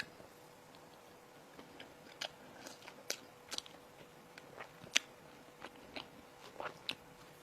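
Close-miked chewing of bready food, a scattered string of short crisp crunches and mouth clicks, about a dozen, starting about a second and a half in.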